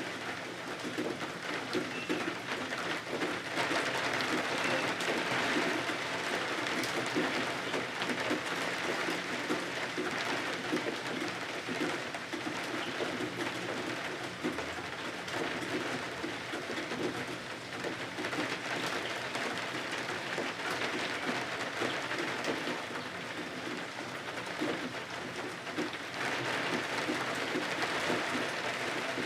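Steady rain pattering, a dense even patter that swells and eases a little in strength.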